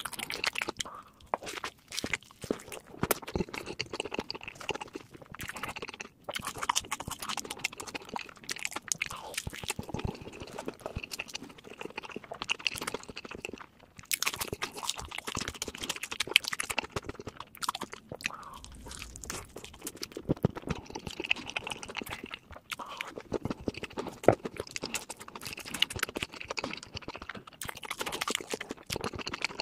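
A person chewing and biting crunchy food, with many sharp crunches in quick, irregular succession.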